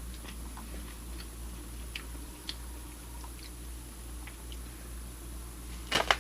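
Someone chewing beef jerky: faint scattered wet clicks and smacks over a steady low hum, with a louder cluster of clicks near the end.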